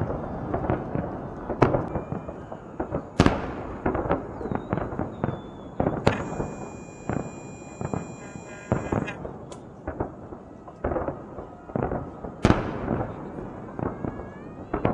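Fireworks display: repeated sharp bursts with echoing tails and dense crackling between them, with the two loudest bangs about three seconds in and near the end. A steady high whistle sounds for about three seconds in the middle.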